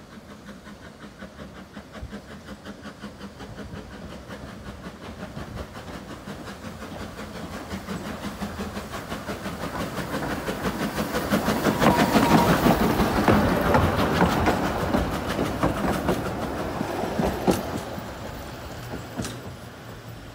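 A narrow-gauge train passing by: a steady clatter of wheels over the rail joints grows louder, peaks past the middle and fades away as it recedes.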